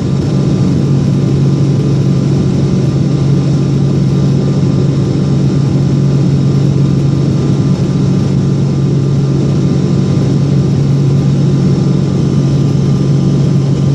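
Boeing 777's jet engines running at high power during the takeoff climb: a loud, steady drone with a strong low hum and a few faint steady tones over rushing noise.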